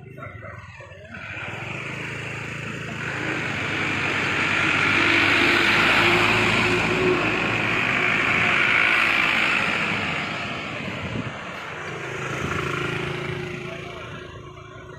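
A motor vehicle's engine and tyres on the road, growing louder as it passes and then fading, with a second, smaller swell near the end.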